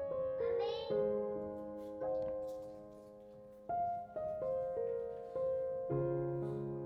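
Soft background piano music, slow notes and chords each struck and left to ring and fade.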